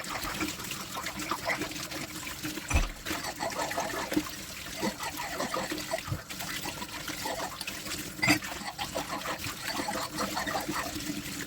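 Water running and trickling at a kitchen sink while dishes are washed, with a couple of sharp knocks of dishware, one about three seconds in and one about eight seconds in.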